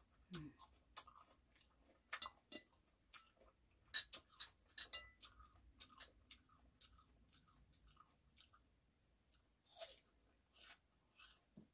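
Soft chewing of crisp persimmon slices: scattered short crunches and clicks, busiest from about two to five seconds in, with another bite near the end.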